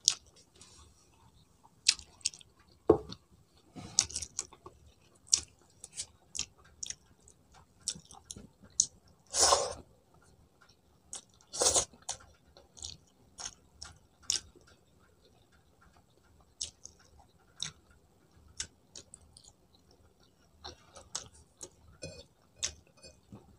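A person chewing a mouthful of rice close to the microphone, with many irregular short wet mouth clicks. Two longer, louder mouth noises come about halfway through.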